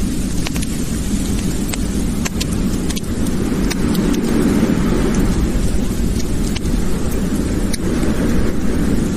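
Wood fire crackling in a fireplace: a steady low rumble of the flames with scattered sharp pops and snaps, one or two a second.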